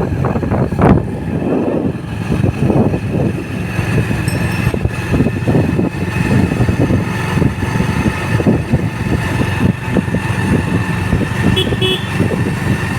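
Road and vehicle noise heard while riding a bike along a road, with a steady low rumble and fluttering wind on the microphone.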